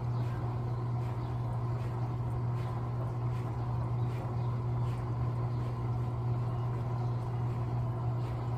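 Electrolux LTA15 washing machine running through a wash, with a steady low motor hum and faint sloshing at intervals.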